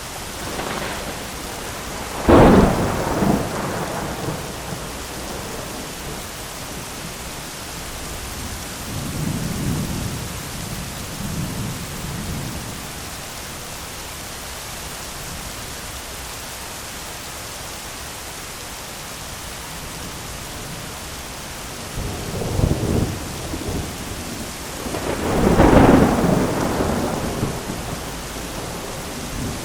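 Steady heavy rain in a thunderstorm. Thunder breaks in with a sharp crack about two seconds in, rumbles more softly around ten seconds, and rolls in again from about twenty-two seconds, loudest near twenty-six seconds before fading.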